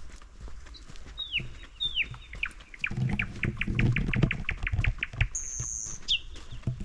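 A small songbird calling: two falling whistled notes, then a fast run of short downward notes at about five a second, and a thin high note near the end. Low rustling and crunching underneath, like footsteps on the forest floor, is loudest in the middle.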